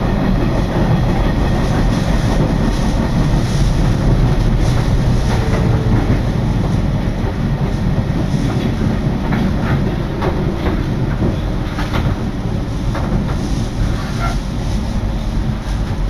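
Electric commuter train running along the track, heard from on board: a steady low rumble of wheels on rail with scattered sharp clicks as the wheels pass over rail joints and points.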